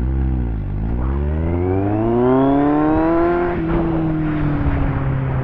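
Motorcycle engine pulling away: the revs dip briefly, then climb smoothly for about two and a half seconds before levelling off and easing slightly as the bike rides on.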